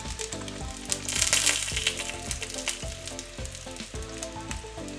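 A bánh xèo crepe sizzling in hot oil in a nonstick frying pan as it is pushed and folded with a slotted spatula. The sizzle gets louder for about a second, starting about a second in. Background music with a steady beat plays throughout.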